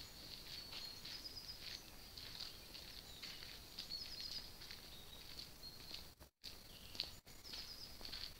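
Faint birdsong: small birds giving short, high chirps and twitters over and over, with two brief dropouts in the sound near the end.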